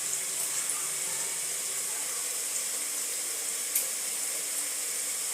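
Onions and coriander stems frying in hot oil, a steady sizzle, with one sharp click a bit after halfway.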